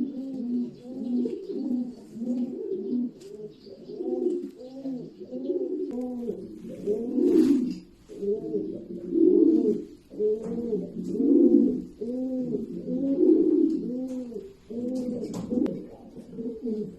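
Racing pigeons cooing: a continuous string of overlapping coos, each a short note that rises and falls, repeating without a break.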